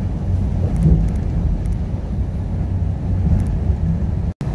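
Steady low rumble of engine and road noise inside a semi-truck cab cruising on the highway. It drops out for an instant near the end.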